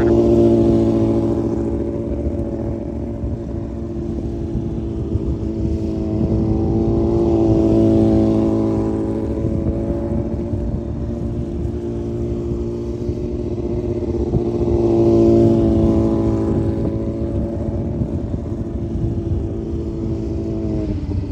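Yamaha R6 sport bike's inline-four engine running at a steady, moderate speed as the bike circles at low speed, its note swelling and fading three times as it comes round past and goes away again.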